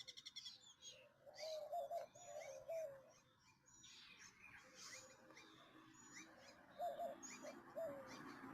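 Faint wild birds calling: quick high chirps throughout, with runs of lower short notes about a second in and again around the seventh second.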